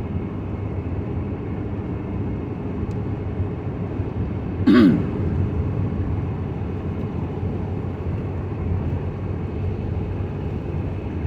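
Steady road and engine noise of a car driving on wet roads, heard from inside the cab. About halfway through comes a short vocal sound falling in pitch, like a throat being cleared.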